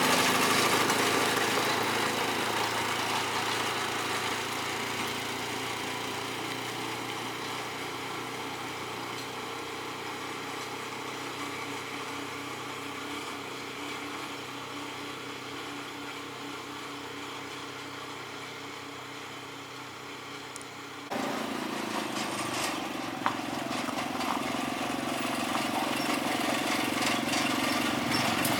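A vehicle engine running steadily and slowly fading, as if moving away. Then the sound cuts abruptly to a louder engine-like hum with a few sharp clicks.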